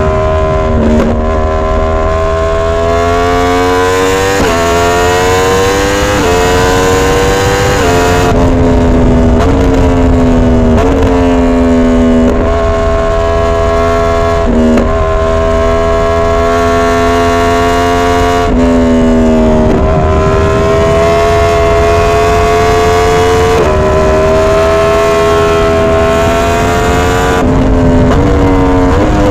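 2022 Yamaha R1's crossplane inline-four engine running hard under way, its pitch climbing through each gear and changing abruptly at about a dozen gear shifts.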